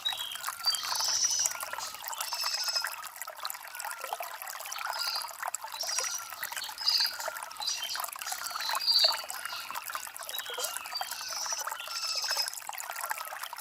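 Shallow stream water trickling and gurgling over river stones, a steady babble.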